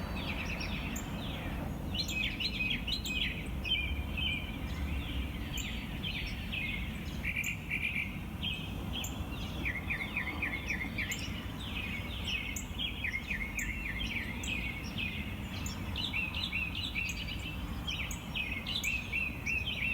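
Dawn chorus: many songbirds singing at once, a dense overlapping mix of quick chirps and trills, over a steady low background rumble, recorded through a phone's microphone.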